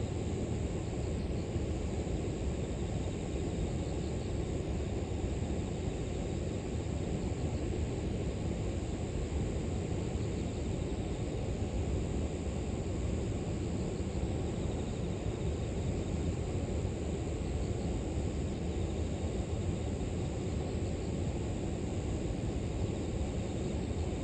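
River water flowing steadily, a continuous low rushing noise, with a steady high-pitched chorus of grass insects over it.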